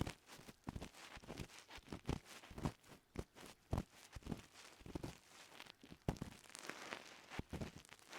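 Ear pick scraping and rustling deep inside an ear at close range, an irregular run of short scratchy strokes, some with a dull low thud, as it works over crackly earwax.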